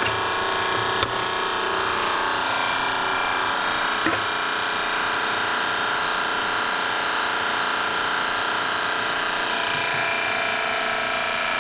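A power tool running steadily without a break, its motor keeping an even pitch, with a couple of light knocks about a second and four seconds in.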